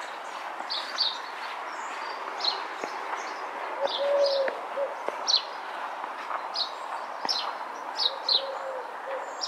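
Small birds chirping: short high chirps about once a second, often in pairs, over a steady background hum. A pigeon coos twice in a low steady note, about four seconds in and again near the end.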